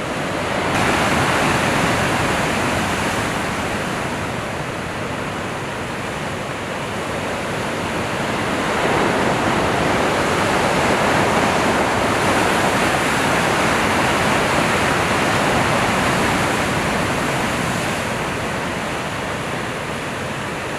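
Steady rush of big-wave surf and whitewater, swelling louder about a second in and again from about nine to sixteen seconds.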